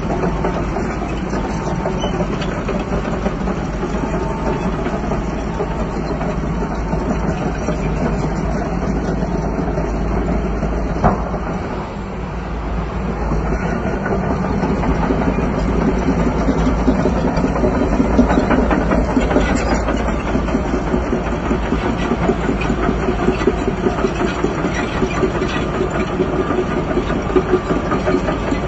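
Crawler bulldozer's diesel engine running steadily with clanking tracks. About twelve seconds in the engine briefly drops, then it builds up again under load.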